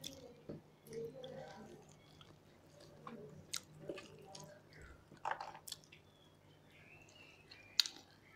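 Two people eating rice and fish curry by hand from steel plates: soft chewing and mouth sounds with scattered small clicks. A sharp click near the end is the loudest sound.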